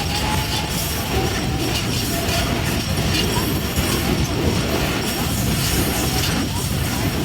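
Passenger train running along the track: a steady rumble of wheels and carriages with faint scattered clicks.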